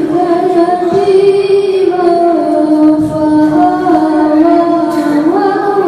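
A young girl reciting the Quran in melodic tilawah style, holding long ornamented notes with slow turns in pitch, rising higher near the end, in imitation of a renowned qari's recitation style.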